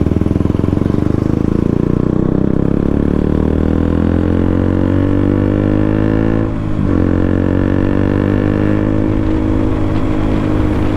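KTM RC 200 single-cylinder engine on an aftermarket Akrapovic full-system exhaust, heard while riding. The revs climb steadily for about six seconds, then drop briefly in a quick gear change about six and a half seconds in, and the engine pulls on steadily after it.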